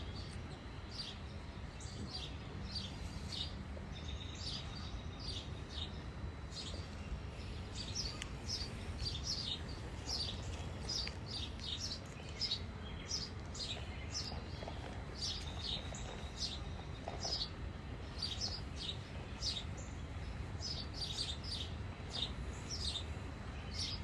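Small birds chirping: many short, high chirps in quick runs, over a steady low background rumble.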